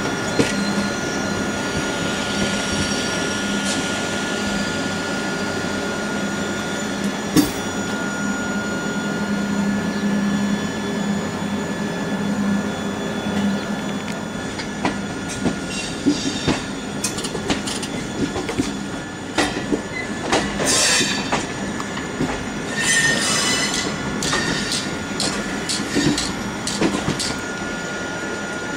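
Passenger train running on the rails, heard from an open window of the coach: a steady rolling rumble with a thin, steady wheel squeal. From about halfway in, a run of sharp clicks and clatter comes as the wheels cross points and rail joints through the station throat.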